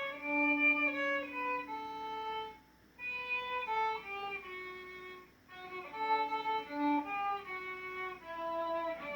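Violin playing a slow melody of long held notes that slide from one to the next, in three phrases with a short break between each.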